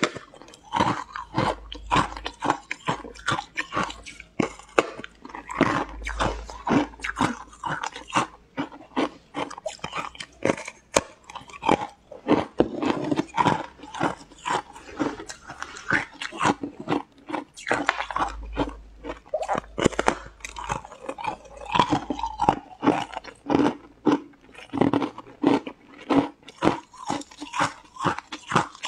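Close-up crunching as a person bites into and chews a large, thin green sheet of food: a dense run of sharp crunches, about two or three a second.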